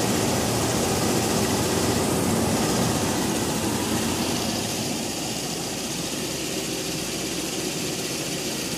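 Car engine idling steadily, a little quieter from about halfway through.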